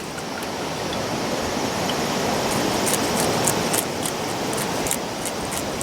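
Steady rushing of river water, with faint sharp crackles scattered through it.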